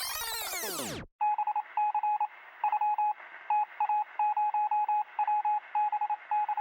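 A synthesized sweeping whoosh of gliding tones that cuts off about a second in, followed by a single tinny beep keyed on and off in irregular short and long pulses, Morse-code style, heard through a thin, radio-like channel.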